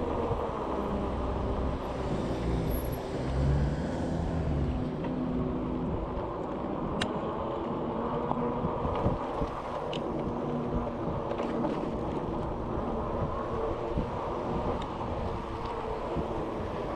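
Steady rumble of road and wind noise picked up by a bicycle-mounted action camera while riding in traffic, with a motor vehicle's engine hum over the first few seconds and a few sharp clicks, one loud click about seven seconds in.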